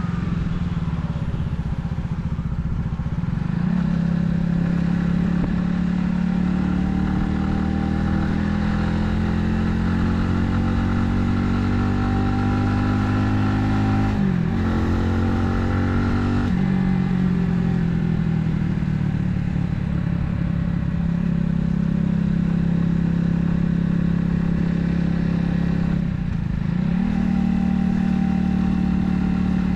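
Italika 250Z's single-cylinder engine running under way, with a steady note whose pitch dips and then climbs back three times: near the start, about halfway through and near the end.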